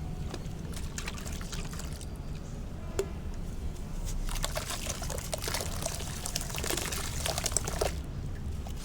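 Soft sand-cement dipped in water, fizzing and crumbling apart with crackly trickling. It grows denser about halfway through and stops abruptly near the end, with one sharp click a few seconds in.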